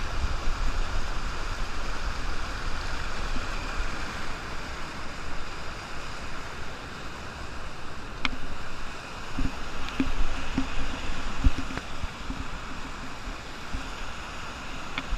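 Rushing water of a waterfall, a steady hiss, with a few faint knocks about eight to twelve seconds in.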